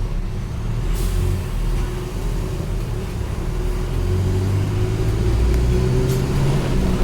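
Mercedes-Benz OF-1722M bus's diesel engine running under way, pulling harder and louder from about halfway through, with a faint whine over it. Two sharp clicks or rattles, about a second in and near the end.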